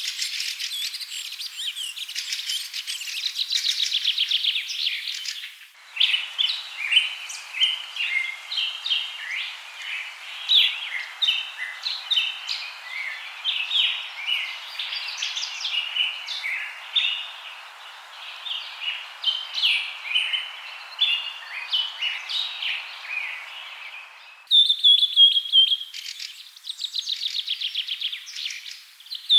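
Birds chirping and singing. A stretch of fast trills gives way abruptly, about six seconds in, to a busy chorus of many short overlapping chirps. Near the end it cuts to clear falling whistled notes and trills.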